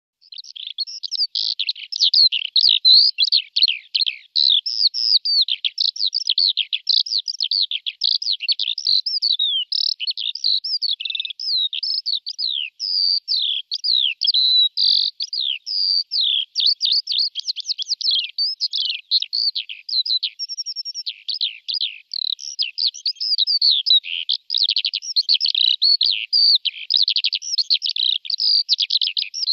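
Dense, continuous bird chirping and twittering: many quick, overlapping high chirps, a lot of them sliding down in pitch, with no pause.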